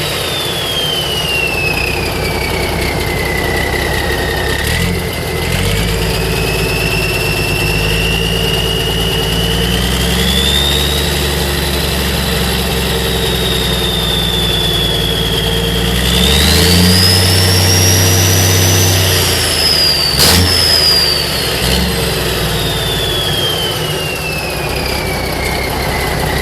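Cummins 855 small-cam diesel running straight-piped with no exhaust, revved up and down several times, highest at about two-thirds of the way through. A high whistle from the turbocharger rises and falls with the revs, and there is a sharp click near the end.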